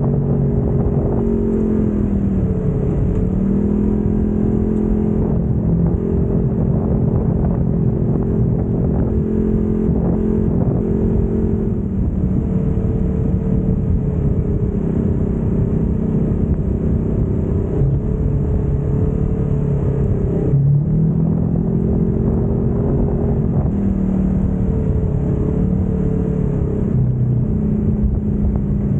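Off-road vehicle engine running under way with a steady low noise of the ride beneath it. Its pitch dips and comes back up twice, near the start and about two-thirds of the way through.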